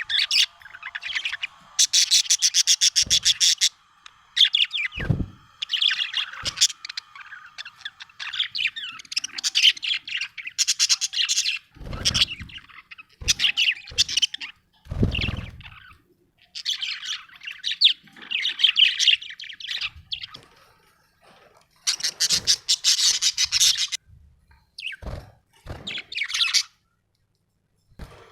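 Budgerigar chirping and chattering in bursts of fast trills and squawky notes, with short pauses between. A few dull low thumps sound among the calls.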